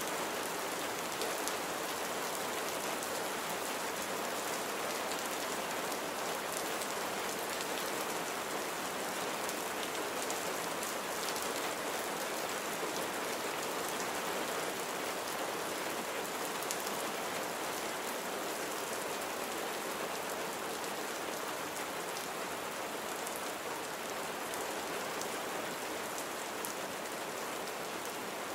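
Steady rain falling on a surface, a dense even hiss with individual drops pattering through it.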